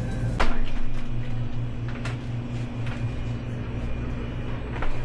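A steady low hum with a few sharp clicks or knocks; the loudest knock comes about half a second in and a smaller one near the end.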